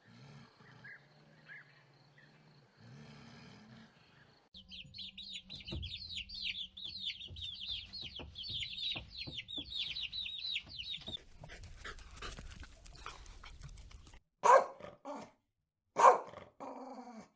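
A dog barking, two loud, short barks near the end. Before them comes a run of rapid, high, falling chirps lasting several seconds, then some scattered clicks.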